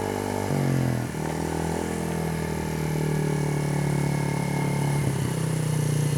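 Small 50cc motorcycle engine running, its pitch shifting about half a second and a second in as the throttle changes, then holding fairly steady.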